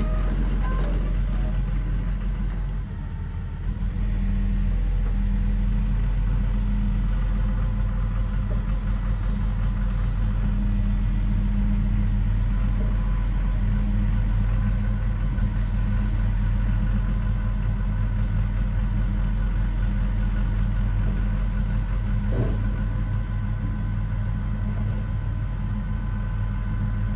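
Excavator's diesel engine running steadily, with a short dip in level about three seconds in.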